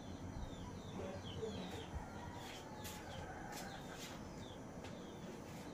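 Faint chirping of birds in the background: short, high, falling chirps repeating irregularly, with a few faint clicks among them.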